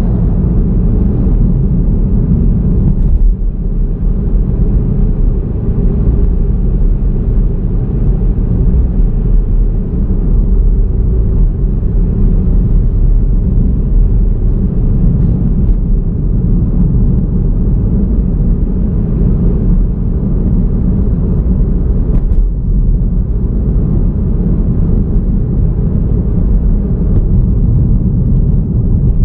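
Steady low rumble of road and driving noise from a moving car, with a couple of brief faint knocks.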